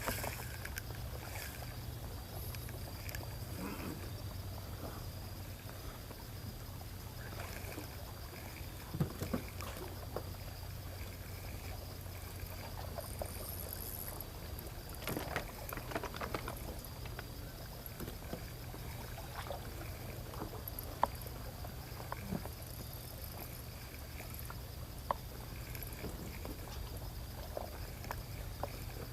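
Seawater lapping at the shoreline, over a steady low hum, with scattered small clicks.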